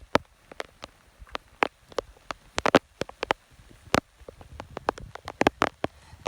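Raindrops striking close to the microphone: irregular sharp ticks and taps, a few each second, some much louder than others.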